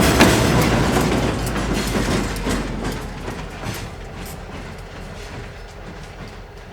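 Track geometry train rolling past, its wheels clicking over the rail joints, the sound fading steadily as it moves away.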